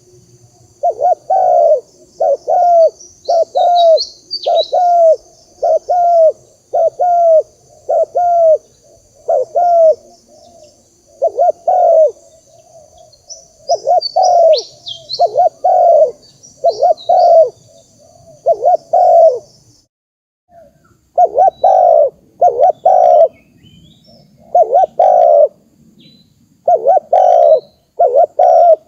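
Spotted dove cooing: short, repeated coos about once a second in runs, breaking off briefly about two-thirds of the way through before resuming. Over the first two-thirds a steady high-pitched buzz and a few short, sharp chirps from a small bird sit behind the coos.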